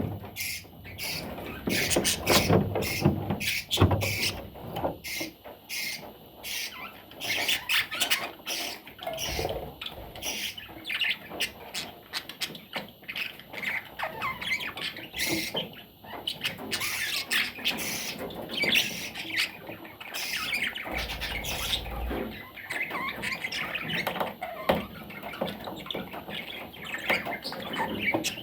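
Budgerigar chattering and squawking: a busy, continuous run of warbles, chirps and short clicks.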